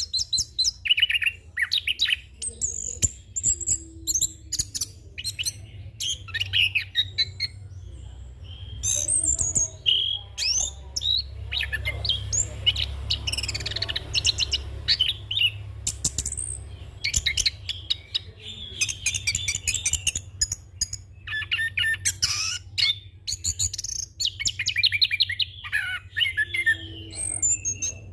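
Chestnut-capped thrush (anis kembang) singing a long, unbroken rolling song of rapid, varied chirps, whistles and trills, packed with mimicked phrases, over a steady low hum.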